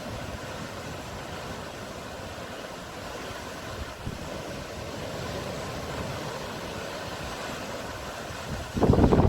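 Sea surf washing steadily as an even rushing hiss, growing a little louder about halfway through. Near the end a sudden loud gust of wind buffets the microphone.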